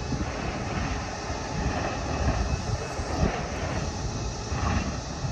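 Metra bilevel commuter train rolling away down the line: a steady low rumble that slowly fades as it recedes.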